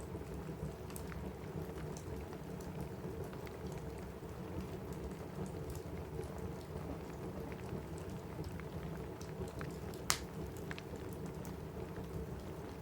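Steady rain with a wood fire crackling over it in scattered small pops, and one sharp, louder pop about ten seconds in.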